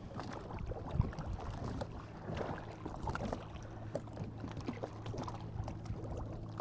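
Rowboat under way, oars stroking and water splashing and lapping against the hull, with small knocks from the oars and a sharper knock about a second in.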